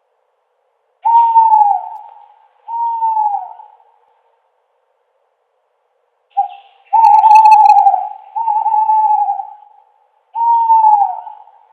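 Owl hooting: a string of hoots, each about a second long and dipping in pitch at its end. There are two in the first group, then a pause of a few seconds, then a short note and three more hoots.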